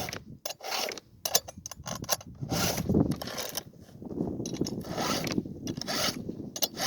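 Hand file rasping across the cutter teeth of a chainsaw chain, in a run of short, irregular strokes about one or two a second.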